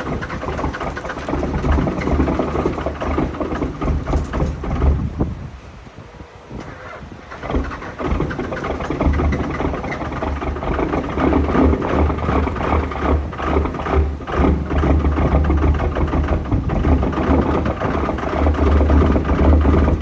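24-valve Cummins diesel with a P-pump during a cold start at about 12°F with no grid heater. The engine sound drops away for about two seconds roughly a third of the way in, then comes back and grows louder toward the end.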